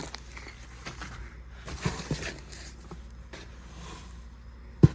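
Rustling packaging and light clicks and knocks as parts are handled and unpacked from a box, with one sharper knock near the end.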